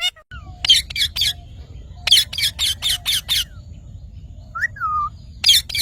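Parrot calling in quick runs of short, harsh squawks. A brief gliding whistle comes shortly before the end, followed by another rapid run of squawks.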